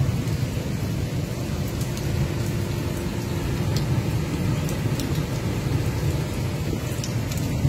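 Heavy rain during a thunderstorm, a steady low rumbling wash with scattered sharp ticks of drops.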